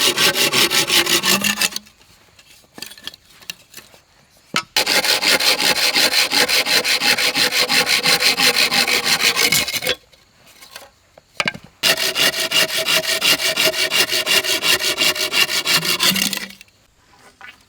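A hand tool rasping on wood in fast, even back-and-forth strokes. It comes in three bouts: one that stops about two seconds in, a long one from about five to ten seconds, and a third that ends near the end, each separated by short pauses.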